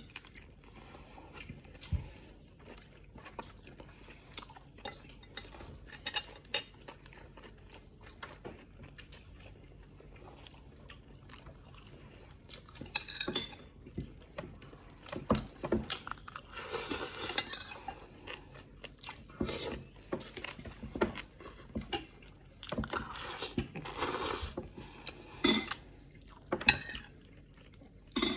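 Mukbang eating sounds: chewing and biting food, with cutlery and dishes clinking in short clicks. The sounds grow busier and louder about halfway through.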